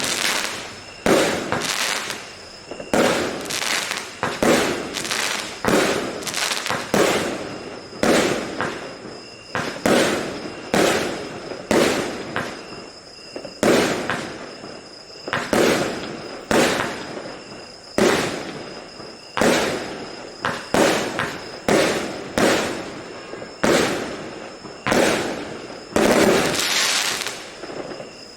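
Multi-shot fireworks cake (the "Rame" SB08-025 battery) firing shot after shot, about one a second. Each shot is a sharp report that fades off quickly.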